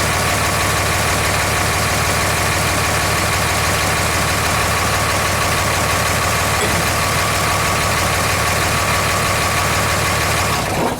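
Engine of a 2003 Dodge Ram 3500 running steadily at idle, with a steady high whine over it, as the power steering is used to press a seized axle shaft loose from the hub. It cuts off abruptly near the end.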